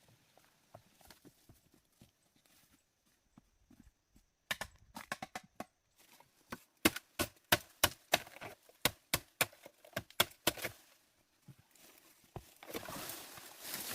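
A run of sharp knocks or taps, about three a second, starting a few seconds in and stopping shortly before the end, followed by a rustling noise near the end.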